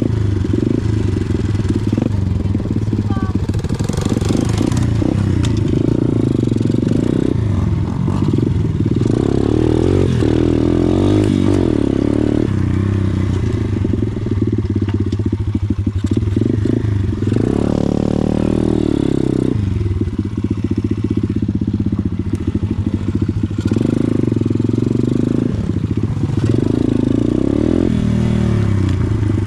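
Pit bike engine running while being ridden, the revs rising and falling repeatedly with the throttle.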